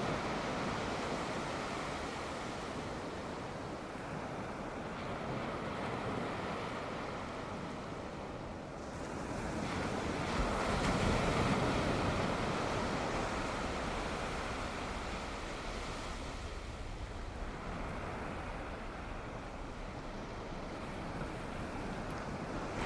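Sea waves washing onto the shore: a steady surf hiss that swells to a peak about halfway through and then eases off.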